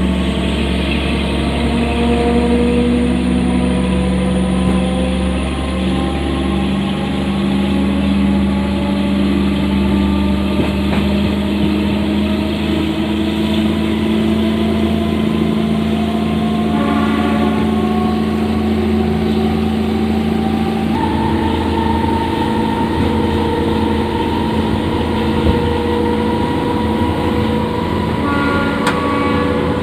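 Moving train running continuously, its several steady machine tones slowly rising in pitch over a low rumble as it gathers speed.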